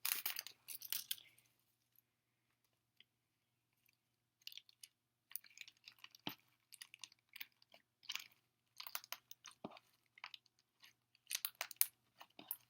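Sticky glue slime being squished and kneaded by hand as sequins are worked in, giving irregular wet crackling and popping clicks, with a pause of about three seconds after the first second and a half.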